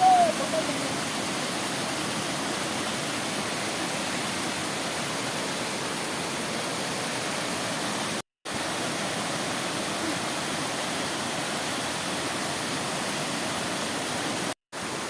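Waterfall rushing: a steady, even roar of falling water, cut off twice by brief dead gaps, about eight seconds in and near the end. A short, loud pitched sound at the very start.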